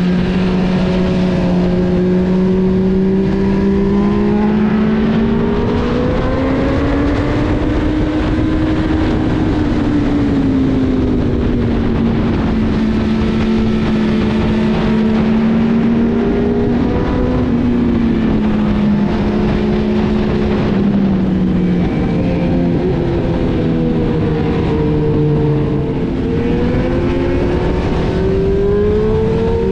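Honda CB1000R's inline-four engine running under load through a series of bends, its revs rising and falling in long sweeps as the throttle is rolled on and off, and climbing again near the end.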